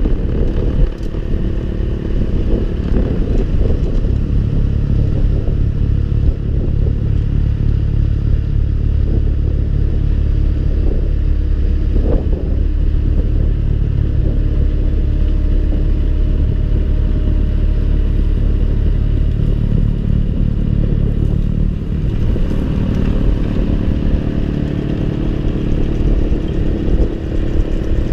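John Deere 6110R tractor engine running steadily under load while driving the snowblower, with a change in its note about twenty seconds in.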